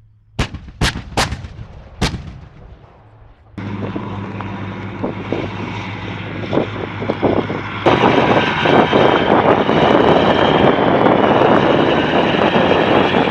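Four sharp shots in quick succession, each ringing briefly, followed by a heavy vehicle engine running steadily, which grows louder from about eight seconds in.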